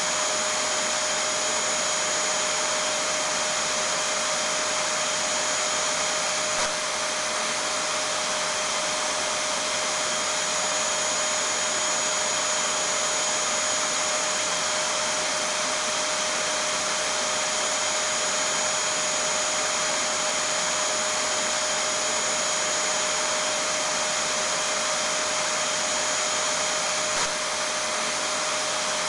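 Vacuum cleaner running continuously: a steady rushing of air with a constant motor whine over it, played as a monotonous sleep sound for a baby. A faint click comes about 7 s in and again near the end, where a high whistle in the noise drops out and then returns.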